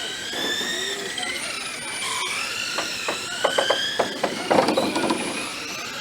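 Several racing RC trucks' motors whining, overlapping and rising and falling in pitch as they speed up and slow down. A flurry of sharp knocks and clatter comes from about three to five seconds in.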